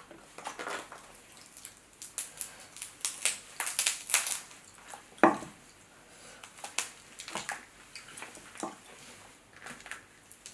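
Close-up eating sounds of a seafood boil: crab shell crackling and wet, sticky clicks as saucy Dungeness crab meat is picked out and eaten. The crackles come irregularly, with one sharper crack about halfway through.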